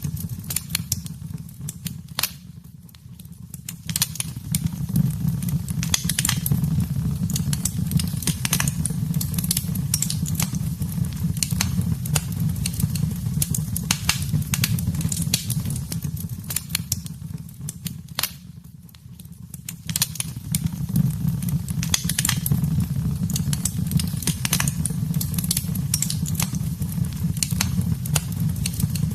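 Wood fire in a fireplace crackling, with a steady low rumble under many sharp pops and snaps. The sound briefly drops away twice, then returns.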